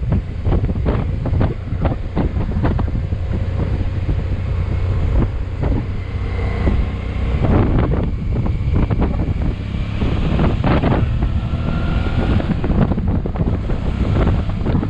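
Wind buffeting the microphone on a moving motorcycle, over the steady low rumble of its engine.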